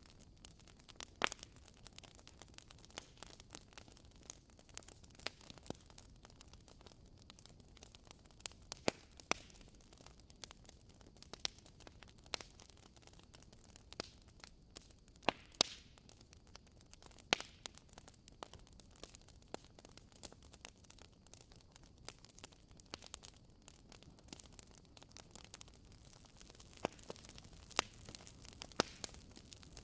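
Wood fire burning in a fireplace: logs crackling, with irregular sharp pops over a faint steady hiss.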